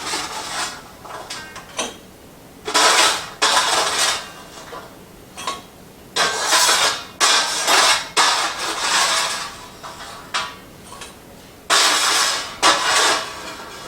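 A utensil scraping and stirring against cookware as food is tossed together, in a series of irregular rasping strokes each under a second long.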